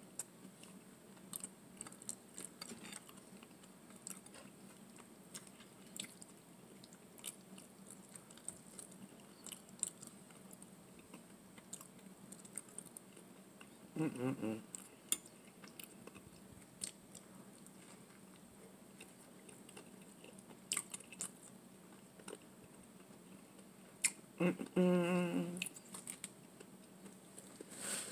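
Close-up chewing and mouth sounds of someone eating spaghetti and garlic bread, with scattered small clicks and smacks, some from a fork against a glass bowl. A brief voiced sound comes about halfway, and another near the end.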